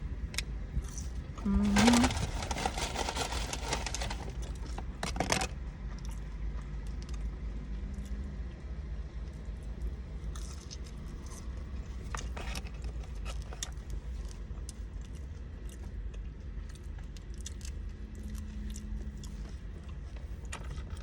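Eating noises from a fast-food meal: biting and chewing, with paper wrapper or packet rustling and small clicks, over a steady low rumble. A loud rustle lasts about two seconds near the start.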